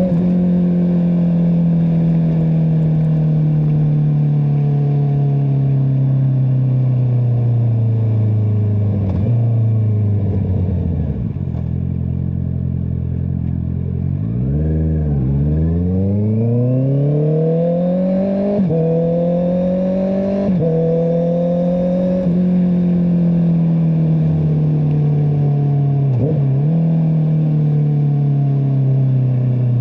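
Honda CBR650R's inline-four engine through an Akrapovic exhaust: the engine note falls steadily as the bike slows, sits at low revs around the middle, then climbs again as it accelerates, with several quick gear changes, before settling into a steady cruise.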